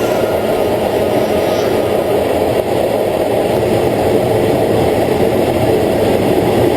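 Steady, loud engine or machinery roar, even throughout with no distinct beats or changes.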